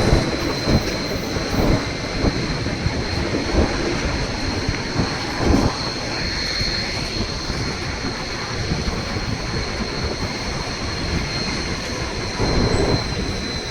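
Narrow-gauge White Pass & Yukon Route passenger train running: a steady rumble of wheels on the rails, with a thin high steady tone over it.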